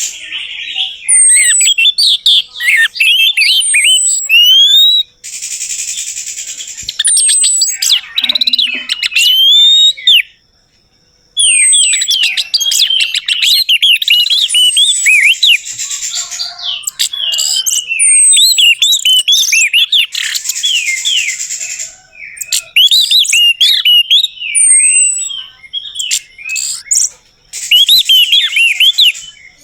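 Orange-headed thrush song: long, fast, varied phrases of whistles and chattering notes, many opening with a high downslurred whistle. There is a brief silent break about ten seconds in.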